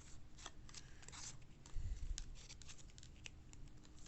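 Baseball trading cards handled and flipped through by hand: faint crisp clicks and snaps of card stock, with a short slide about a second in and a dull bump just before two seconds.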